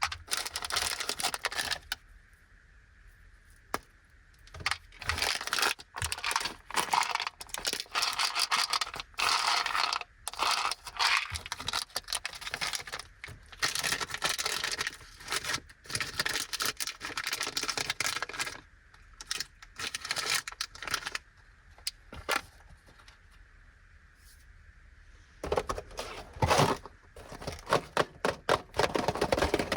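Plastic snack packaging of Anpanman biscuits being crinkled and torn open in repeated bursts, with small sharp clicks and taps between them.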